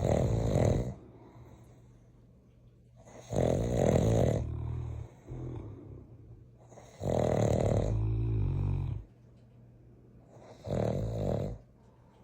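Large dogs snoring in their sleep: a loud snore about every three and a half seconds, each lasting one to two seconds, with quiet gaps between.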